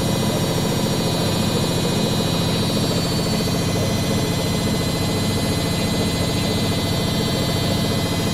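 Washing machine running: a steady mechanical drone with a fine rapid pulsing and constant pitch, never changing in level.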